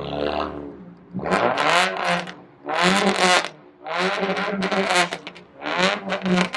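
A car engine revved in four bursts of about a second each over a steady idle, its pitch rising and falling with each blip of the throttle.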